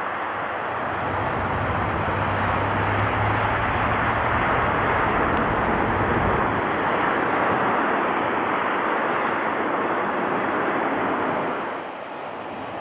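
Jet airliner engine noise, a steady rushing roar with a low hum beneath it in the first half, dropping away suddenly near the end.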